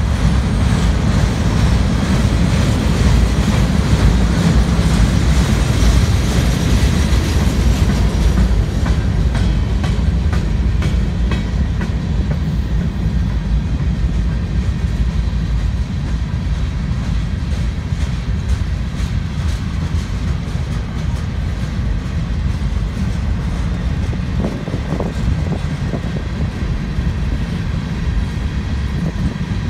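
Cars of a mixed freight train rolling past close by: a loud, steady rumble of steel wheels on the rails, with a run of repeated light clacks through most of it.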